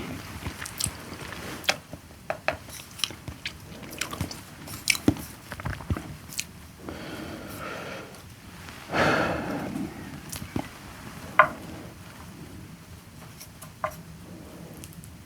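Close-up eating sounds: a person chewing and biting, with many short sharp clicks and a noisy swell lasting about a second midway. Two short ringing clinks come near the end.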